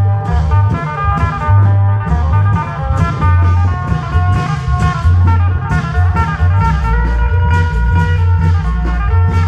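Isan klong yao band music: a quick plucked-string melody over heavy, pulsing long-drum bass and crisp percussion strokes on a steady beat.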